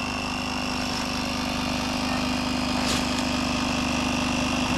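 A motor running steadily with a constant hum and a high whine, with a short click about three seconds in.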